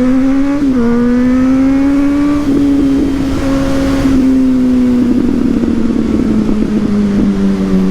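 Suzuki GSX-S1000's inline-four engine through a Yoshimura aftermarket exhaust, pulling under way. The note rises, drops briefly at a gear change about half a second in, then climbs slowly and holds. It sounds rougher and eases off a little in the second half.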